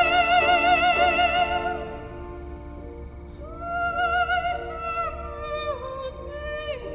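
Classical soprano singing with wide vibrato over piano accompaniment. A long held note ends about two seconds in; a new phrase begins about three and a half seconds in and steps down in pitch toward the end.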